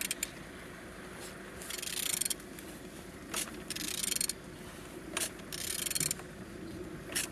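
Engine being turned over by hand with a wrench on the crankshaft: three short scraping, ratcheting strokes about two seconds apart, with sharp clicks between them. The engine turns freely.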